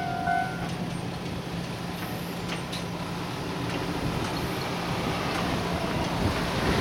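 A level-crossing warning bell rings for the first moment and then stops. Under it a diesel shunting locomotive's engine runs with a steady hum, and a rushing noise builds toward the end.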